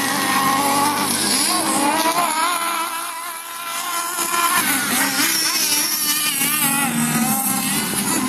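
Radio-controlled off-road car motor running, its pitch rising and falling as the throttle is worked. It drops quieter about three seconds in, then picks up again.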